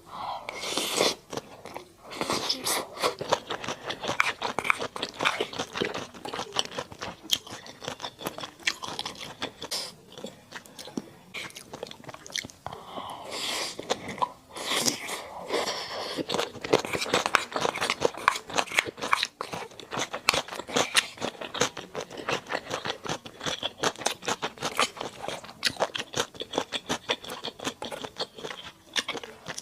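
Close-miked mouth sounds of eating mala duck: steady chewing with rapid, wet crunching clicks, starting abruptly and continuing without pause.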